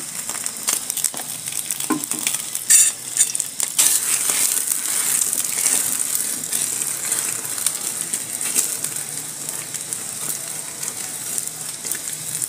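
Egg-dipped bread frying in freshly added hot oil in a pan, sizzling and crackling steadily. A metal spoon moves and presses the slice, with a few louder clicks about three seconds in.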